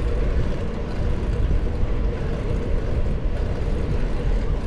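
Wind rumbling on the microphone of a camera riding along on a moving bicycle, with steady rolling noise from the ride.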